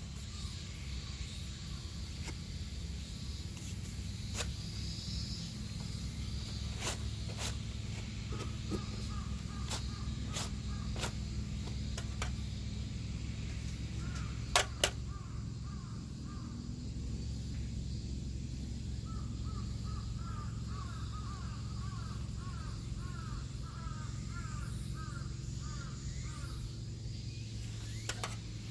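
Wood fire crackling in a fire pit: scattered sharp pops over a steady low rumble, with the loudest pair of pops about halfway through. A bird calls in two runs of short repeated notes, one early on and a longer one in the second half.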